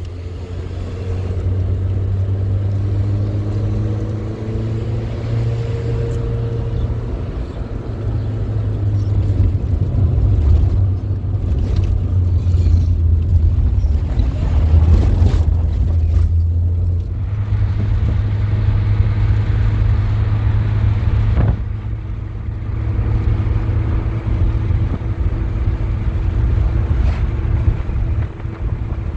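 A motor vehicle driving, with a steady low engine and road drone. The engine note rises over the first several seconds, shifts and dips around the middle, then settles into a steady tone near the end.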